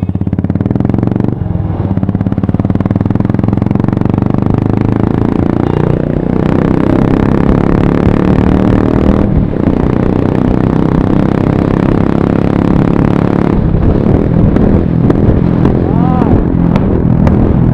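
Motorcycle engines running under way, loud and steady, with the engine note shifting several times as the bikes change speed and gear.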